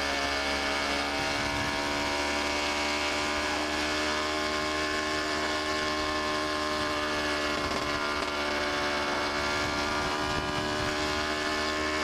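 Aprilia RX 125 motorcycle engine running at steady revs with its exhaust blown apart, so it sounds loud and unsilenced.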